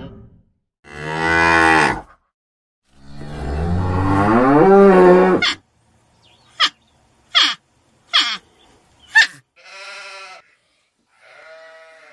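Cattle mooing: two long moos, followed by four short, sharply falling whistle-like calls about a second apart and two fainter, shorter calls near the end.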